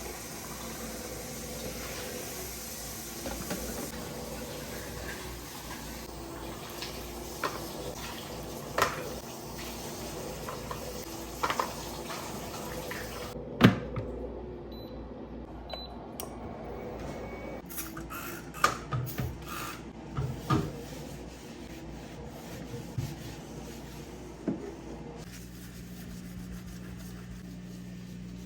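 Water running from a kitchen tap into a sink, with dishes clinking, until it is shut off about halfway through. A few sharp knocks and clatters of dishes and cupboards follow, and a low steady hum starts near the end.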